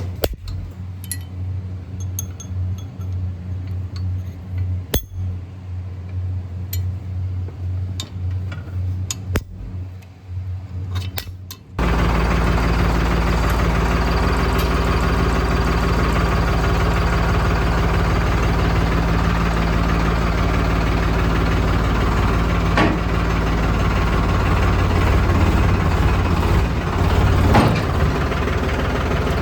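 Sonalika DI 35 tractor's diesel engine running with a low steady hum and scattered sharp metal clinks; about twelve seconds in the engine noise suddenly becomes much louder and stays steady.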